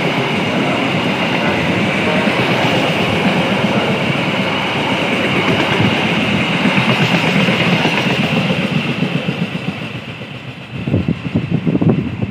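Passenger train coaches passing close by at speed: a steady rumble and hiss of wheels on rail that fades away about ten seconds in as the last coach goes by.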